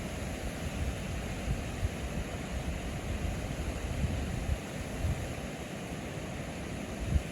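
Wind noise on the microphone: a steady low rumble with irregular gusty thumps.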